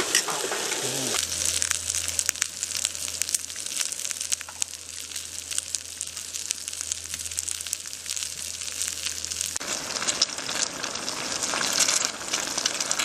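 Food frying in a pan: a steady sizzle with lots of small crackles and pops, under a low steady hum that stops abruptly near the end, after which the sizzle gets louder.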